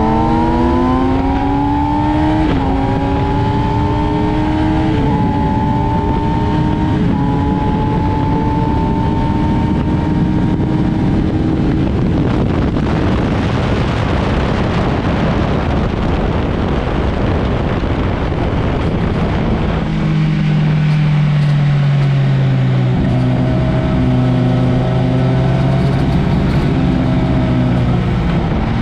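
Motorcycle engine accelerating hard on a race track, its pitch rising and then dropping back at three upshifts in the first seven seconds. Wind roar at speed then drowns most of the engine for about ten seconds. From about twenty seconds in, a lower, steadier engine note returns.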